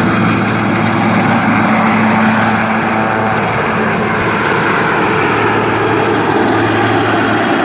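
Helicopter running close by: a loud, steady engine and rotor sound.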